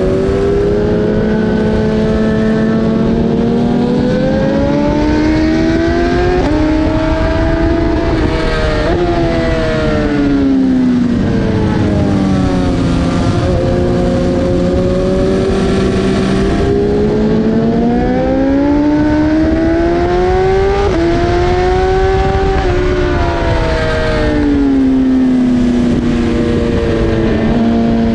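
BMW S1000RR's inline-four engine at full race pace: the revs climb with quick upshifts that drop the pitch in sudden steps, then fall away under braking and pick up again out of the corner, twice.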